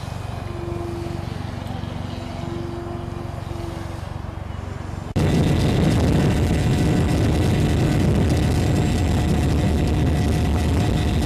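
Radio-controlled model airplane in flight, its motor and propeller running steadily. About five seconds in, the sound jumps abruptly to a much louder, noisier steady rush, which then cuts off.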